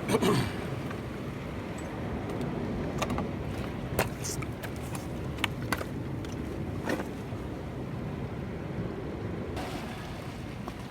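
Steady low rumble of wind and sea on the microphone, with a few sharp clicks and knocks scattered through it.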